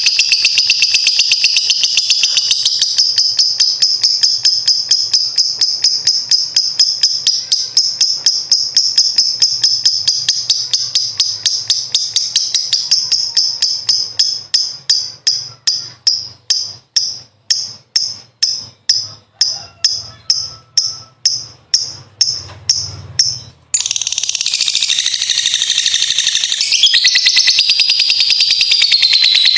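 Lovebird's long ngekek song: a fast, rattling run of shrill chattering notes. Midway it slows into separate beats about two a second, breaks off briefly, then resumes as a dense shrill trill.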